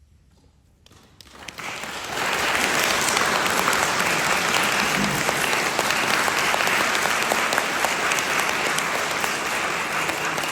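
Concert-hall audience applause: about a second of near-quiet, then clapping breaks out and quickly swells into steady, full applause.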